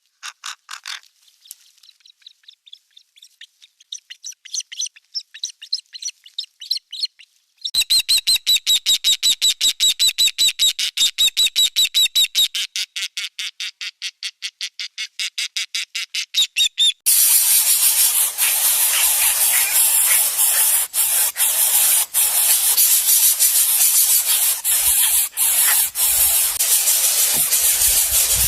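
Bird calling: scattered high chirps, then a fast, even run of repeated high notes for about ten seconds. After that a loud, steady hiss with scattered clicks takes over.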